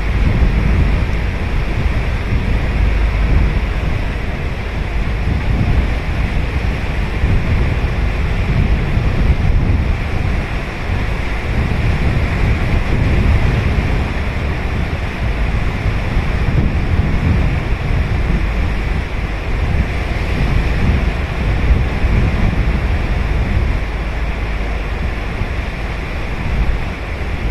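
Ocean surf washing continuously onto the beach, with wind buffeting the microphone as a fluttering low rumble underneath.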